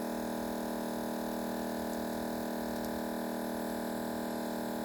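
Steady electrical hum, a constant buzzing drone that stays unchanged.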